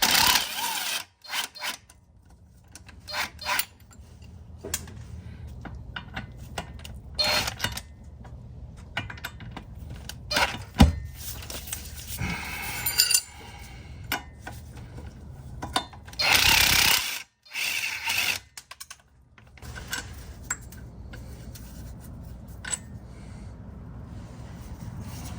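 Tools working on a car's underside: scattered metallic clicks, knocks and scraping, with one louder burst lasting about a second around sixteen seconds in.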